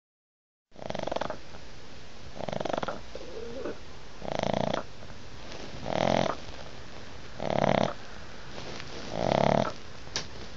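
Pug snoring in her sleep: six loud snores, one about every one and a half to two seconds.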